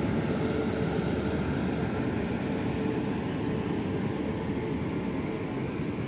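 Passenger train coaches rolling slowly past during departure: a steady rumble and hum that eases off slightly.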